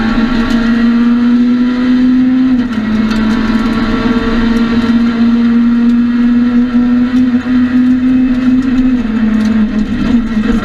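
Citroën C2 R2 Max rally car's four-cylinder engine heard from inside the cockpit, running hard at high revs. There is a short break about two and a half seconds in as it shifts up a gear, and the revs fall near the end as it slows and shifts down.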